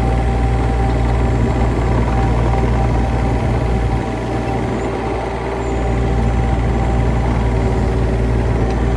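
A large engine running steadily, with a deep low hum and a steady higher whine. The sound eases slightly for a couple of seconds around the middle.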